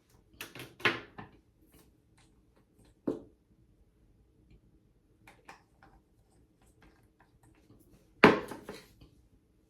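Small hard objects being handled and set down, making a few sharp clacks and clatters: a quick cluster about half a second in, a single knock around three seconds, and the loudest clatter a little past eight seconds.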